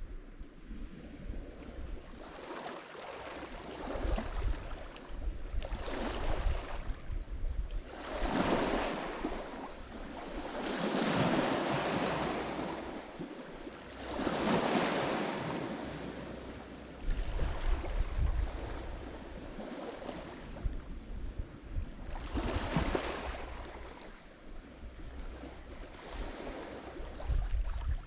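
Lake Michigan waves breaking on the shore, one swell after another every few seconds, with the biggest surges around a third and halfway through.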